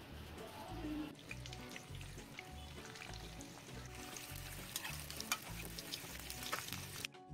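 Food frying in a hot pan, sizzling and crackling, with background music that has a steady low beat. The sizzle cuts off abruptly near the end.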